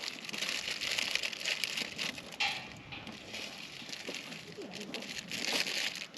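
Wood campfire crackling as it catches, a dense run of snapping and crinkling that swells around the middle and again near the end.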